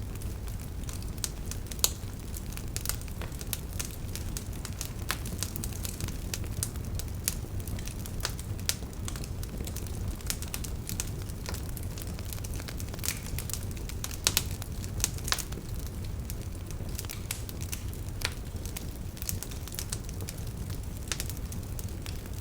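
Wood fire crackling, with a steady low rumble of burning and frequent irregular pops and snaps, a few sharper than the rest.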